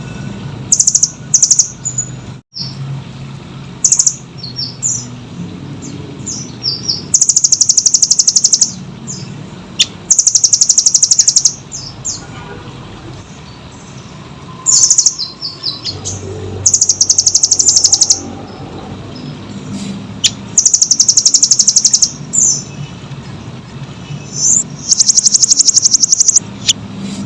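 Velvet-fronted nuthatch (rambatan doraemon) singing: about five very fast, high-pitched trills of one to two seconds each, with short chirps between them.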